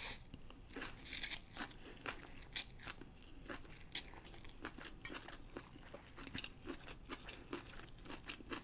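Close-miked chewing of stir-fried rice noodles with pork: a run of short wet mouth clicks and smacks, a few louder ones in the first four seconds.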